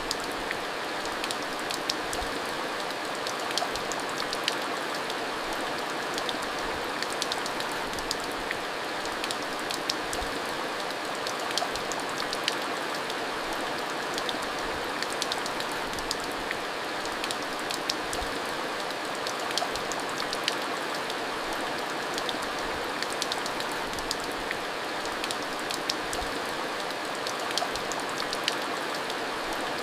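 Steady monsoon rain falling, with a constant hiss and many sharp individual drop taps scattered through it.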